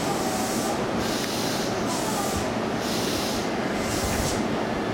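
JR Chuo-Sobu Line electric commuter train running through the station: steady rail noise with a high hiss that swells and fades about once a second.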